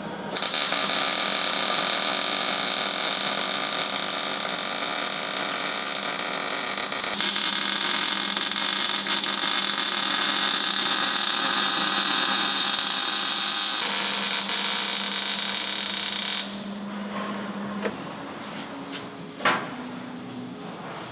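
A power tool running loud and steady for about sixteen seconds, then stopping suddenly, followed by a few quieter clicks and one sharp knock.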